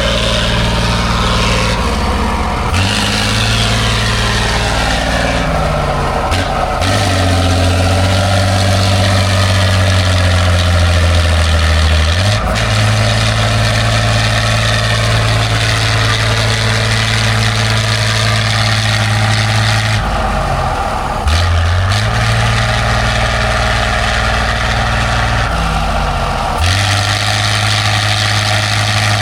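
Heavy off-road competition truck's diesel engine running hard, its note dropping and rising again several times as engine speed changes.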